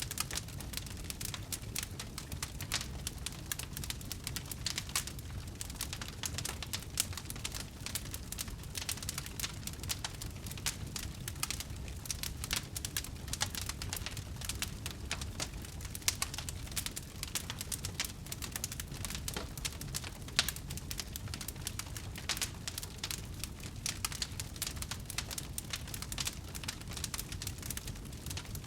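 Wood fire burning, with a dense, irregular run of sharp crackles and pops over a steady low rumble.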